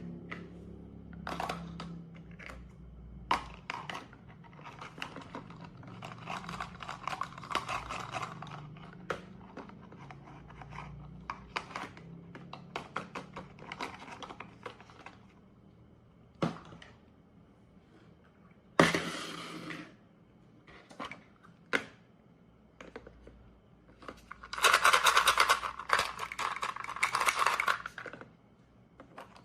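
Toy plastic fruit being cut with a toy knife: many light plastic clicks and knocks, with rasping rips of the Velcro halves pulling apart, one short about two-thirds through and a longer, louder one near the end.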